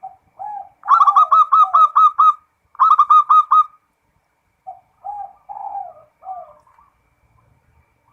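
Zebra dove (perkutut) cooing in the rolling 'ngerot' style: soft low coos, then two loud runs of quick repeated notes, about six a second, then softer coos again after a pause.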